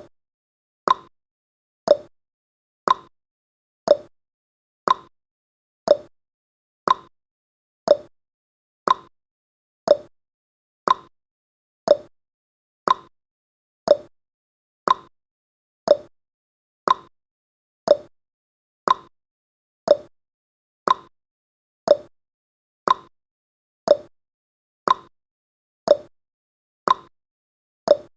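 Clock-style ticking sound effect of a countdown timer: one short tick every second, steady and even, alternating between a higher and a lower tick like a tick-tock.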